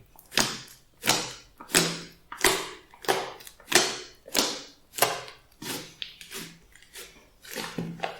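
Glossy slime being squeezed and pressed by hand, squelching in a regular rhythm of about three squelches every two seconds.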